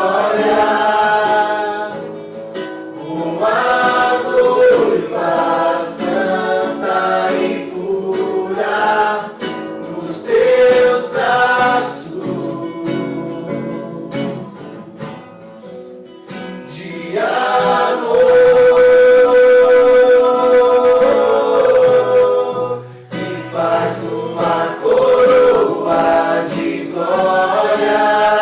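A small group of voices singing a worship song in unison, with acoustic guitar accompaniment; about two-thirds of the way through they hold one long note.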